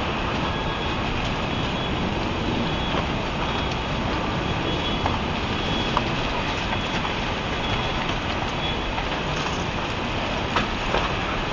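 Steady roar of tsunami floodwater rushing through and carrying debris, with short faint high squeals and a few sharp cracks, such as metal and wreckage grinding and scraping.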